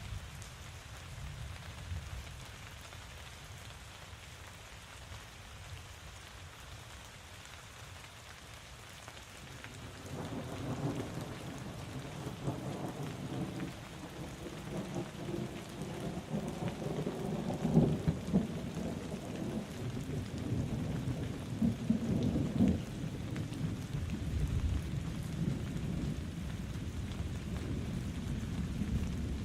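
Steady rain falling. About a third of the way in, a long roll of thunder begins and keeps rumbling, with its loudest peaks past the middle.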